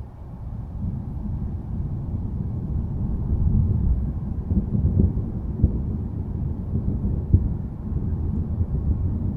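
Low thunder rumbling, swelling over the first few seconds and then rolling on, with two brief sharper cracks in the second half.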